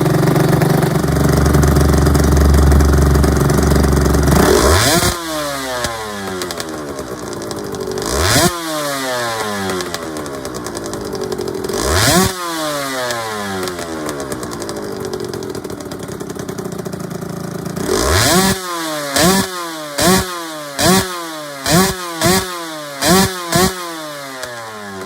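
Honda NSR250R (MC28) two-stroke V-twin through ETHOS expansion chambers, held at raised revs for about four seconds and then blipped sharply, the revs falling away slowly after it. Two more single throttle blips follow, then a quick run of about seven short blips near the end, the revs dropping back between each.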